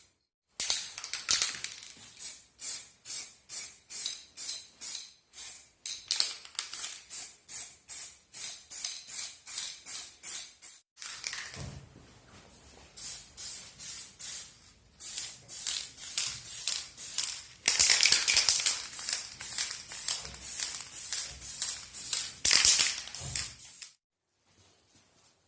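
Hand scrubbing or sanding strokes, rasping back and forth at about two to three strokes a second: abrasive rust-removal work on an old hand drill's parts. The strokes break off abruptly at a couple of cuts.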